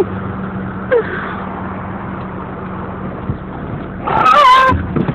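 Car engine running steadily with a low hum. About four seconds in, a brief, loud, high-pitched wavering sound rises over it.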